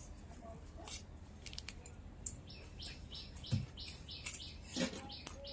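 A small bird chirping in a quick series of short high calls, about three a second, through the second half. A single dull knock comes a little past halfway.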